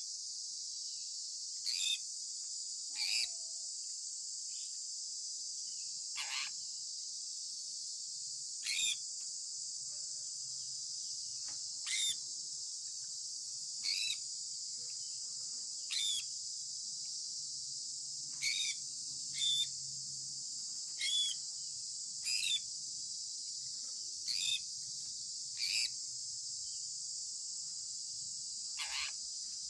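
Sun conure parrot chirping: short, sharp, downward-sweeping calls repeated about every one to two seconds over a steady high-pitched hiss.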